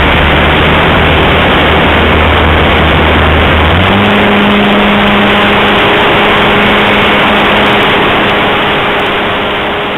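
Electric motor and propeller of a Mini Pulse XT RC airplane, heard through the camera mounted under it, under a heavy rush of wind noise. The motor's tone steps up to a higher pitch about four seconds in, and the sound slowly grows quieter near the end.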